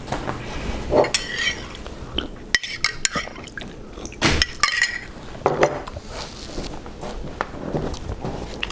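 Metal spoon clinking and scraping against a dish in a run of irregular sharp clinks. A few of the clinks ring briefly.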